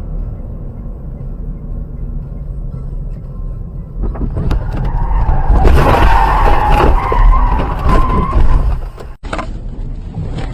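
Car road rumble, then about four seconds in a loud skid of tyres on tarmac lasting several seconds, with a held squeal. The sound breaks off abruptly near the end and a steadier road rumble takes over.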